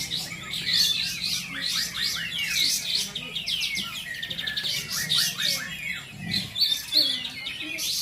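Many caged competition songbirds singing at once. Fast overlapping chirps and trills run on without a break.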